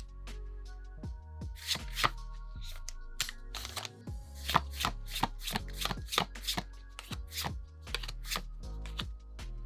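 Pokémon trading cards handled and flipped through by hand: a rapid run of sharp card snaps and slides, about two or three a second, over background music.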